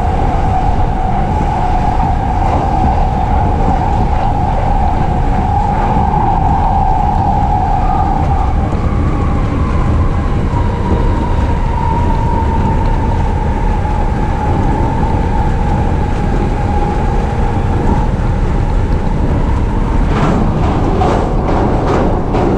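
JR East E233-series electric commuter train running at speed, heard from inside: a steady heavy rumble with a sustained whine that rises slightly about halfway through and dies away a few seconds before the end, then a quick run of clacks near the end.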